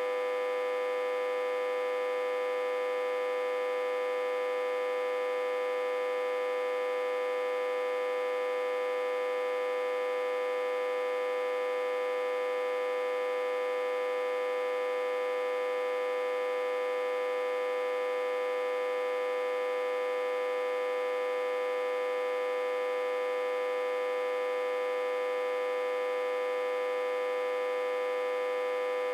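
Autotransformer humming steadily: one buzzy tone held at a constant pitch and level, rich in overtones. It is reverse-connected to a step-down transformer and fed about 60 to 80 volts, which drives the hum.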